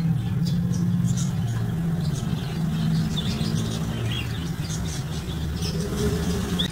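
Steady low hum, with short high chirps and squeaks from caged birds scattered over it.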